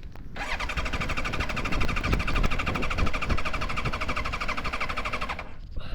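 1999 Yamaha YZF-R1's electric starter cranking its inline-four engine with a fast, even whirring pulse for about five seconds, then stopping abruptly without the engine catching. This R1 can be stubborn to start.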